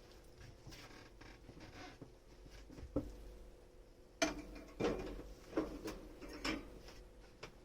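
Dishes being washed by hand: soft rubbing and scrubbing, then, from about four seconds in, a series of light knocks and clinks as the dishes are handled.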